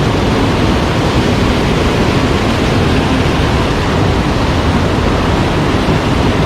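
Mountain stream water rushing over rocks, a steady, loud wash of noise that does not change.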